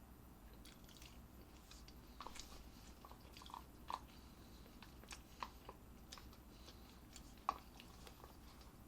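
A person chewing mackerel sashimi, faint, with soft wet mouth clicks and smacks scattered throughout and one sharper click about seven and a half seconds in.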